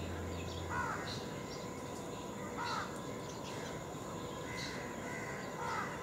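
Short bird calls, four of them about two seconds apart, over a steady faint background hum.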